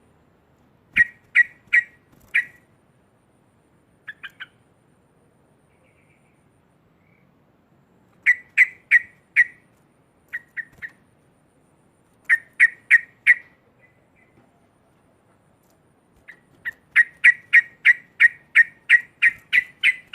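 Yellow-vented bulbul (trucuk) giving loud, sharp chattering calls: short bursts of three or four notes, then a longer, faster run of about fifteen notes near the end, the loud 'ngekek' chatter.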